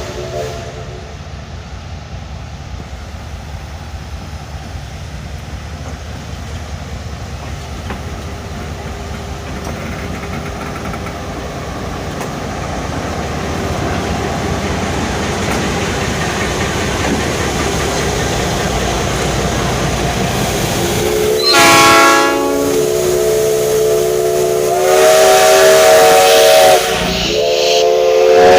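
A locomotive moving in close, its rumble and hiss growing steadily louder, then sounding its multi-tone chime whistle: one short blast, a longer one a few seconds later, and another starting near the end.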